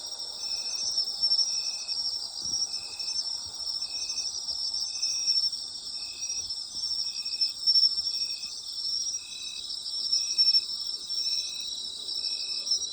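Night insects singing in a chorus. A steady, high, pulsing trill carries throughout, and a lower short chirp repeats at an even rhythm a little under twice a second.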